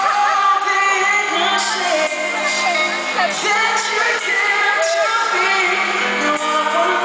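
Live pop music: a male lead singer with band accompaniment, heard from within a concert audience.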